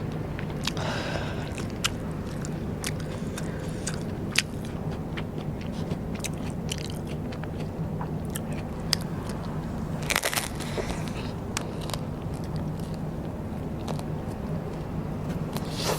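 Close-up crunching and chewing of rice paper snacks, with sharp crackling bites scattered throughout and a denser crunchy burst about ten seconds in.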